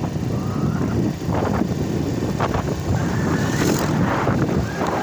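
Crown HD Plus 70cc motorcycle's single-cylinder four-stroke engine running on the move, with wind buffeting the microphone.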